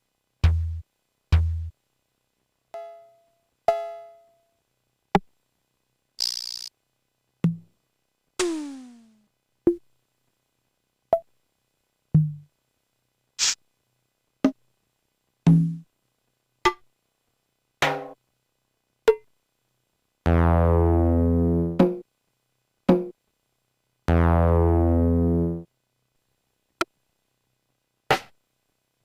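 MFB-501 Pro drum machine samples played one at a time, each a separate one-shot about a second apart: low thumps, short clicks and pitched blips, a noisy hit and a falling zap. Two longer buzzing low notes, each about a second and a half, sound near the middle of the sequence.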